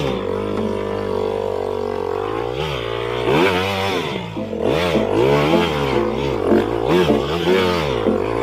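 Off-road motorcycle engine running at a steady speed, then revved up and down repeatedly, about twice a second, from about two and a half seconds in.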